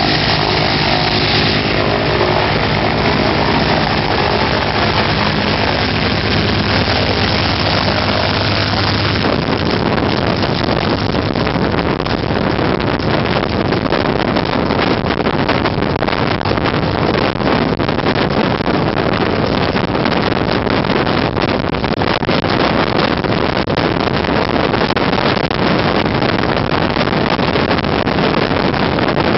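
Loud, steady aircraft engine noise with wind buffeting the microphone. In roughly the first nine seconds a steady engine drone with several held tones sits over the hiss, then it gives way to a rougher, even rush.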